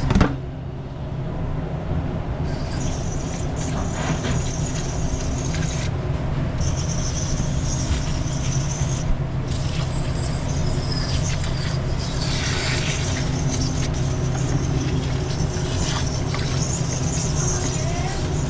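A steady low mechanical hum, with a high hiss that cuts in and out several times over it.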